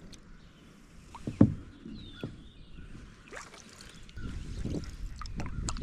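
Canoe paddling: water sounds from the paddle strokes, with scattered small clicks and one sharp knock about a second and a half in. A steadier low rumble comes in about four seconds in.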